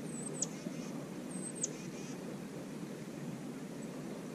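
A bird calls twice in the first couple of seconds, each call a short high whistle ending in a sharp downward slur, over a steady low rushing background noise.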